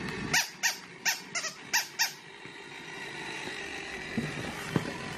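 Battery-powered interactive toy pet giving six quick, squeaky electronic chirps within about two seconds, over a faint steady hum.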